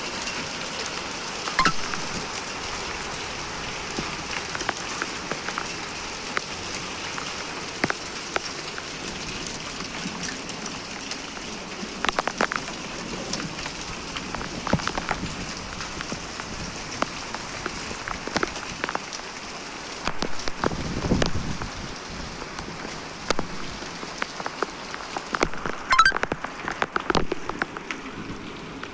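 Steady rain falling and splashing on hard surfaces, with many sharp drip and drop ticks over an even hiss, heavier in a few short spells.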